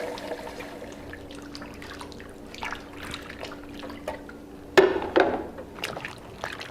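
Water running and dripping, with scattered small drip ticks over a steady low hum. About five seconds in the hum stops and a single sudden loud knock sounds, followed by a few smaller knocks.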